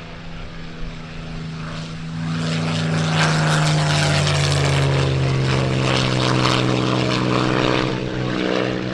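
A Rolls-Royce Merlin-engined piston fighter flying past low. The engine builds quickly after about two seconds, runs loud for several seconds, then eases off with its note dropping slightly in pitch as it passes.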